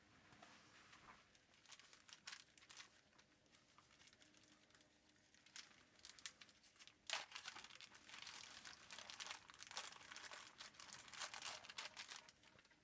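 Faint crinkling and rustling in quick, irregular bursts, sparse at first and busier from about halfway, like material being handled at close range.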